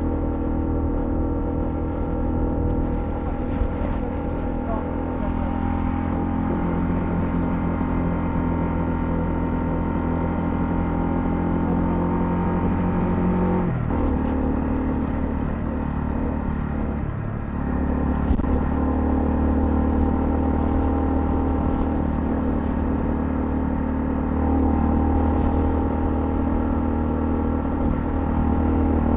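Honda CL250 motorcycle engine running steadily while riding. Its note shifts about halfway through and again a few seconds later, then gets a little louder near the end.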